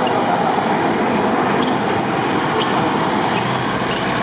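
Steady, even background noise with a few faint ticks high up.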